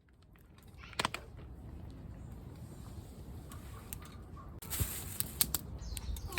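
Scattered sharp clicks over a low, steady rumble: one click about a second in, then a short burst of hiss and a few quick clicks around five seconds.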